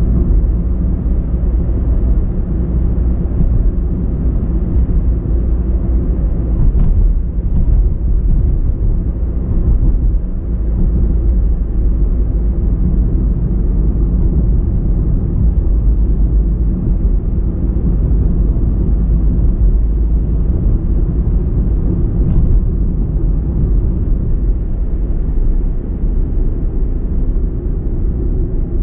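Car driving at a steady pace: a continuous low rumble of road and engine noise, with a couple of faint clicks about seven and twenty-two seconds in.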